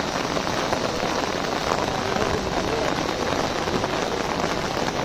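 Heavy rain falling steadily, hitting an umbrella overhead.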